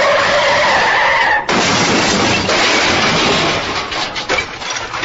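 A sound-effect crash of something breaking: after a second and a half of noise with a faint falling tone, a sudden dense crash thins out into scattered clinks of falling debris.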